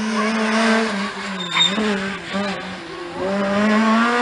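Rally car engine running at high revs, its pitch sagging and wavering in the middle, then climbing again about three seconds in. A short sharp crack comes about a second and a half in.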